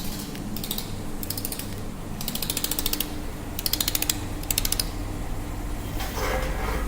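Pulsed laser welding machine firing in about six short bursts of rapid ticking, each a fast buzzing train of pulses, over a steady low machine hum. About six seconds in comes a duller, lower rustling sound.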